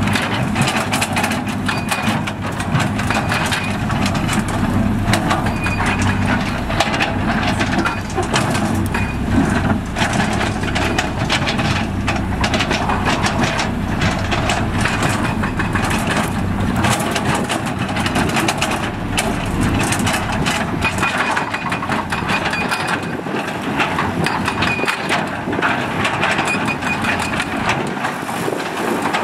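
Heavy construction machinery working on rocky ground: a steady diesel engine drone under a continual jumble of knocks and scrapes of rock and earth.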